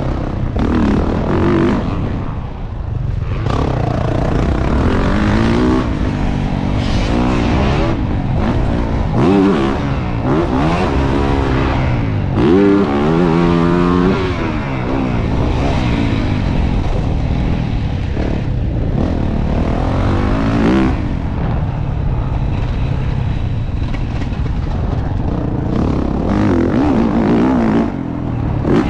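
2024 Yamaha YZ450F's single-cylinder four-stroke engine revving hard again and again, its pitch climbing and falling as it is run up to the rev limiter.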